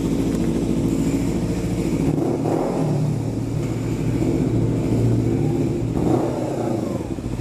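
Kawasaki Ninja 300's parallel-twin engine running, heard from a helmet chin-mounted camera. The engine note shifts in pitch about two seconds in and again near six seconds.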